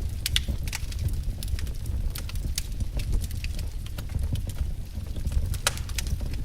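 Wood fire crackling: irregular sharp pops and snaps, several a second, over a steady low rumble of burning firewood.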